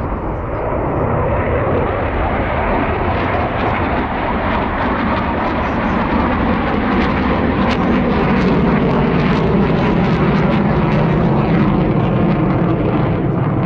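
Aircraft engine noise from a plane flying past, growing slowly louder, with a low tone that drifts gradually down in pitch.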